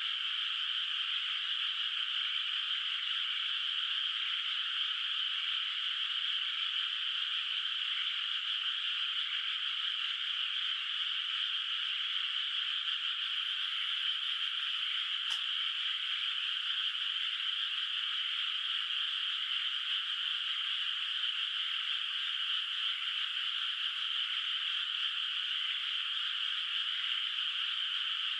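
A dense chorus of many frogs calling from a flooded rice paddy, a steady, even, high-pitched wall of croaks with no pauses. One faint click sounds about halfway through.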